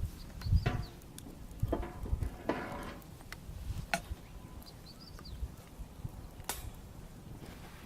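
Wood bonfire crackling with scattered sharp pops, and a small bird chirping briefly twice in the background.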